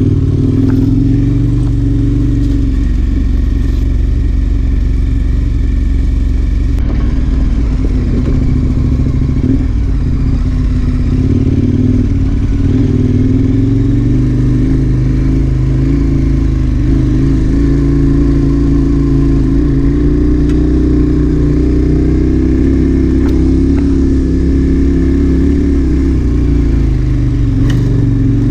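KTM 1090 Adventure R's V-twin engine running under way as the motorcycle is ridden off-road. The engine note rises and falls repeatedly as the throttle is opened and closed.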